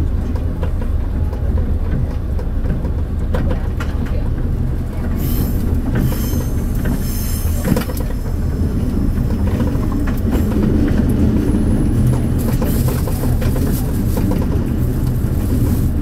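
Diesel railcar running along the track, heard from inside the front car: a steady low rumble with the click of wheels over rail joints. High squeals of the wheels on the curve come about five seconds in and again near the end.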